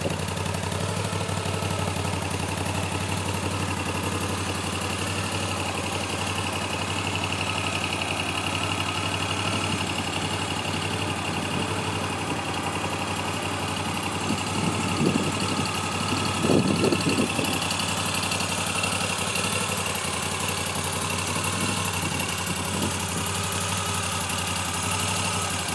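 Moto Guzzi V7 III Stone's air-cooled transverse V-twin idling steadily, swelling briefly louder twice about midway.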